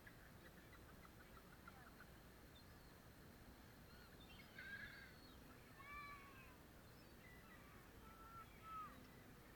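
Seagulls calling: several short, squawking calls, the loudest a little before halfway, at about two-thirds, and near the end.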